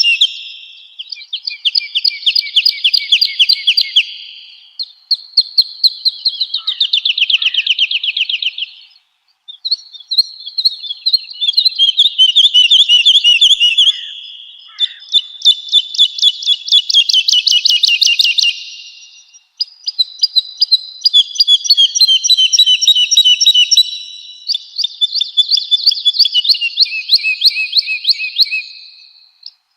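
Woodlark singing: a run of phrases, each a few seconds long, made of fast-repeated liquid notes, with short pauses between phrases.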